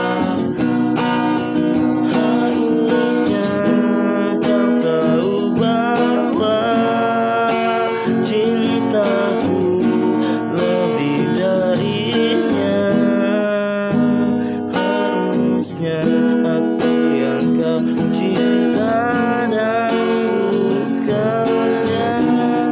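Acoustic guitar strumming with a singing voice carrying a melody over it.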